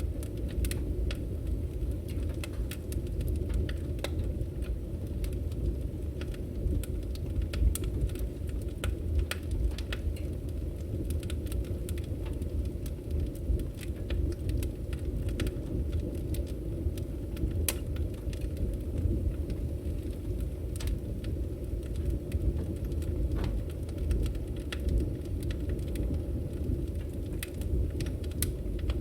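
Burning firewood crackling and popping irregularly over a steady low rumble of the flames.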